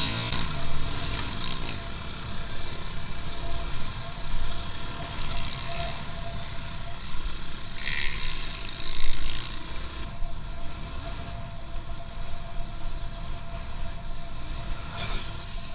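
A car driving: a steady low rumble of engine and road noise, with a faint steady whine and a few brief louder noises along the way.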